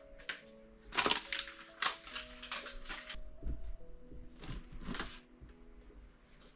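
Kitchen items being handled and set down in a cupboard, a string of sharp clicks and clatters, over soft background music. The clatters thin out near the end.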